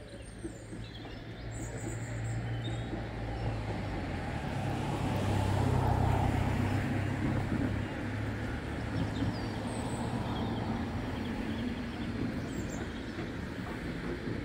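Train running past, a low rumble that grows louder to a peak about midway and then carries on a little quieter. Birds chirp faintly.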